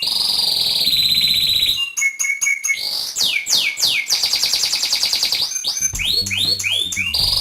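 Bird-lure call recording of a small songbird: a fast high trill, a quick run of short notes, a series of whistles each sweeping downward, then a buzzy high trill and more falling whistles. The sequence starts over at the end, as a looped lure does.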